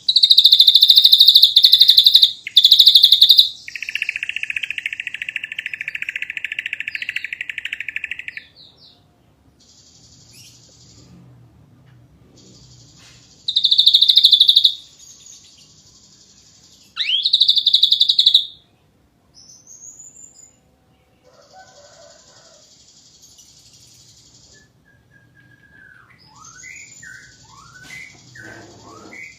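Ashy drongo singing: loud, harsh rattling bursts and a long buzzy note in the first eight seconds, two more loud rattles in the middle, and short whistled slurs near the end.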